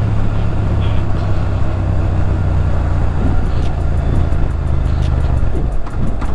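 Motorcycle engine running under way, a steady low drone with wind and road noise over it; the engine note drops away about five and a half seconds in.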